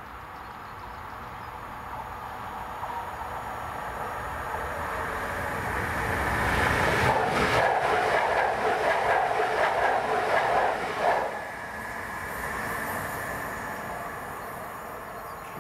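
ČD InterPanter electric multiple unit passing at speed over the level crossing. Its rumble and wheel clatter build up and stay loudest for about five seconds midway, then cut off sharply as the last car goes by and fade away.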